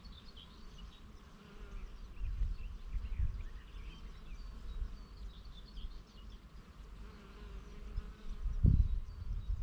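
Bee buzzing close by with a steady drone that fades in and out, while small birds chirp in the background. Gusts of wind rumble on the microphone about two seconds in and again near the end, and these are the loudest sounds.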